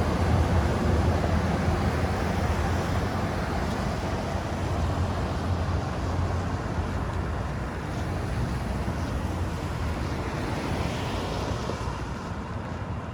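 Low rumble of road traffic, loudest at first and slowly fading away.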